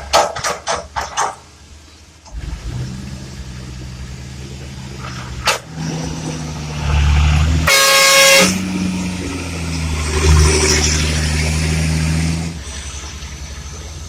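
A few sharp knocks, then a heavy diesel engine running and building up in level, with a single horn blast of under a second about eight seconds in.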